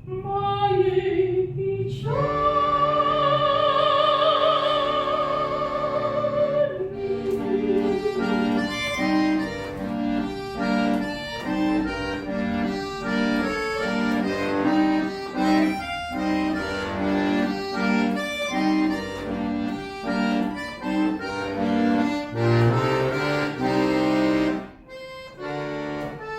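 Bayan (button accordion) accompaniment. For the first few seconds a singer holds a long note with vibrato over it. From about seven seconds the bayan plays on alone in a steady rhythm of chords and bass notes.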